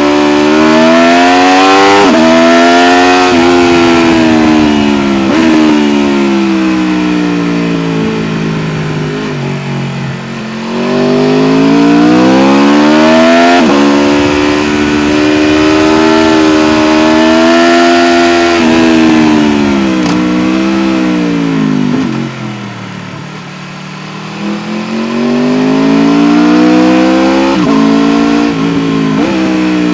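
Aprilia RSV4 1100 Factory's V4 engine heard on board, accelerating up through the gears, its pitch climbing and dropping sharply at each upshift. The revs fall away twice as the throttle closes, about ten seconds in and again for a few seconds past twenty, before it pulls up through the gears again with quick shifts near the end.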